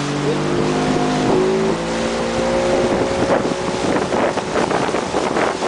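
Motorboat engine running steadily, its pitch stepping up slightly about a second in, then fading under choppy, gusty wind and water noise from about four seconds.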